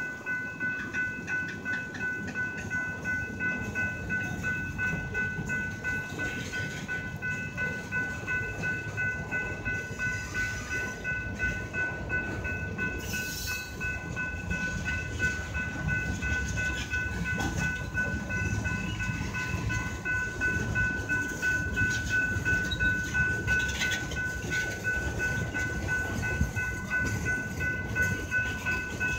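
Freight train of hopper cars rolling past at close range: a continuous rumble with a regular clack of wheels over rail joints, about two a second. A steady high-pitched ringing tone sounds over it throughout.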